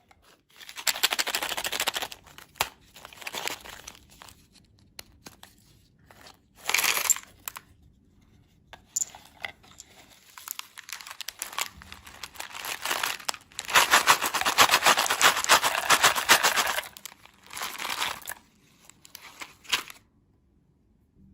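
Candy wrapper packaging crinkling and tearing in repeated bursts, the longest and loudest stretch running for several seconds past the middle, then stopping near the end.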